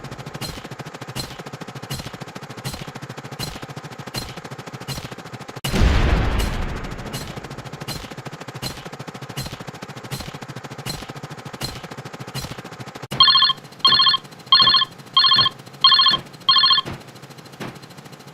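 An explosion sound effect booming about six seconds in and dying away over a couple of seconds, over a steady run of clicks about twice a second. Near the end a telephone rings in six quick trilling bursts.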